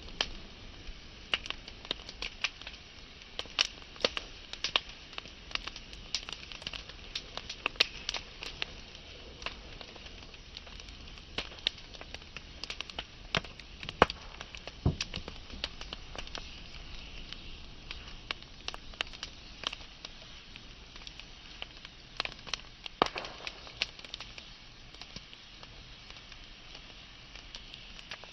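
Wood fire burning: a dense, irregular crackle of sharp snaps and pops over a soft steady hiss. The crackle is busiest in the first several seconds and thins out later, with a few louder pops.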